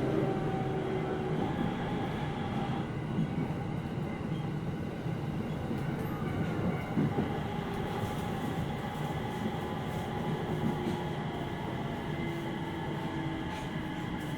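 Interior running noise of a JR East 701 series 5500 electric train car: a steady rumble of wheels on rail, with a few faint steady motor tones, as the train nears its next station stop.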